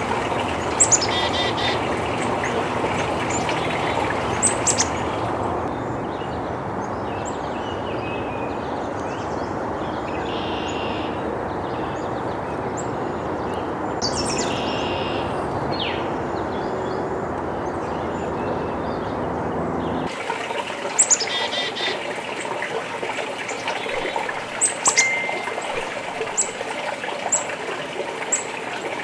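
Black-capped chickadees calling: short, high sweeping notes and buzzy repeated 'dee' notes in clusters near the start and over the last third, with scattered calls between. A steady rushing background noise runs under them and changes abruptly about two-thirds of the way through.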